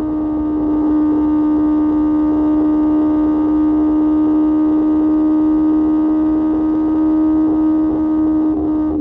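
QJ Motor SRK600's inline-four engine through an SC-Project exhaust, held at steady revs while riding: a constant drone over a low rumble, the pitch easing down slightly near the end.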